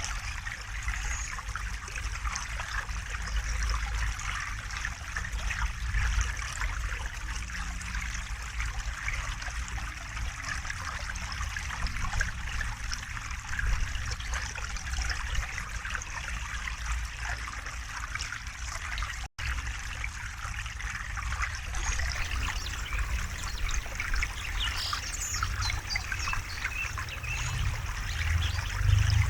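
River water flowing steadily, a continuous trickling rush with a low rumble underneath. It drops out for an instant about nineteen seconds in.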